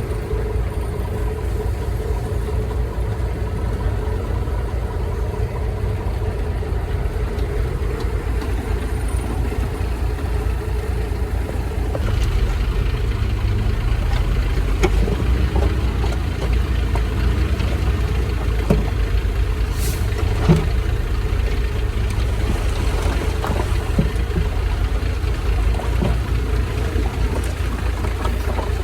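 Heavy diesel engine running steadily. About halfway through it grows a little louder, and a few sharp knocks or clanks stand out over it.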